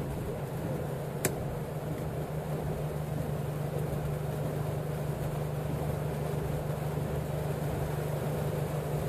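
Engine of a four-wheel-drive vehicle running steadily as it creeps along a muddy dirt track, heard from inside the cab. A single sharp click comes about a second in.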